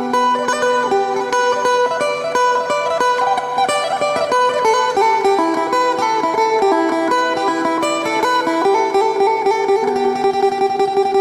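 Solo plucked-string melody in Isan phin style: quick runs of single notes ringing over a held low drone.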